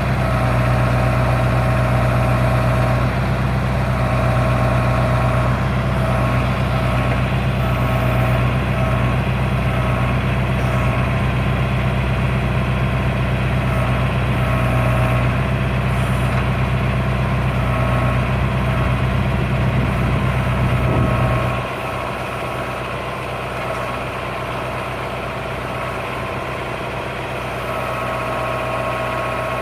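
Tractor engine running steadily with a deep hum. About two-thirds of the way through, the low hum drops away and it carries on running more quietly.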